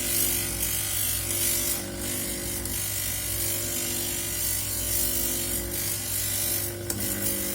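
Electric polishing/grinding machine running steadily, with a gritty hiss from a seashell being ground and polished against it and brief scrapes here and there.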